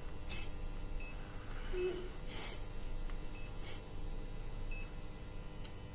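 Faint handling knocks of the multimeter and its test leads, with a few very short, faint high beeps.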